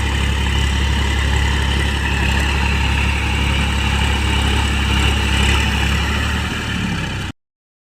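New Holland tractor's diesel engine running steadily at a low, even speed, then cutting off suddenly near the end.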